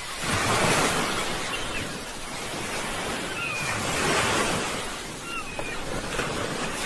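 Sea waves breaking and washing onto the shore, the surf swelling and falling away in surges about every three seconds. A few short, faint high chirps sound over the surf in the middle and later part.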